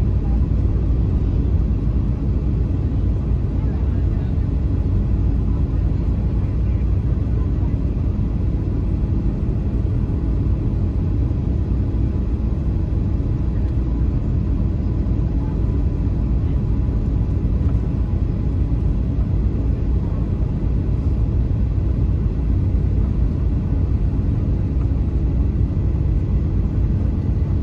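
Steady low rumble of a Boeing 737-800's cabin: its CFM56-7B engines and airflow, heard from a passenger seat, even throughout with no change in pitch.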